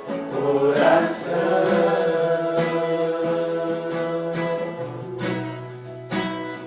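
Voices singing a Portuguese worship song over strummed acoustic guitar, holding the last word "coração" for several seconds. After the held note ends, the guitar keeps strumming alone.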